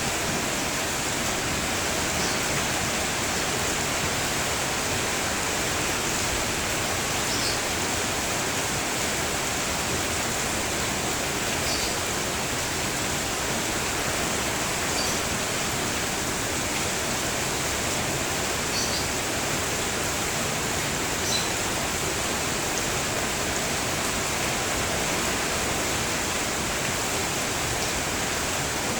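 Steady rain falling, with a few faint, brief bird chirps every few seconds.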